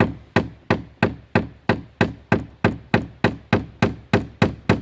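Hammer driving a nail into wood with a steady run of quick blows, about three a second; the nail is not yet fully driven in.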